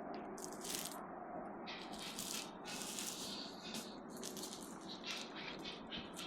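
Irregular rustling and rattling handling noise close to the microphone, in short bursts over a steady outdoor hiss.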